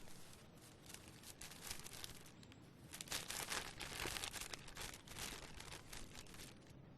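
A dense run of small clicks and rustles, starting with one sharp click, thickest in the middle and stopping shortly before the end.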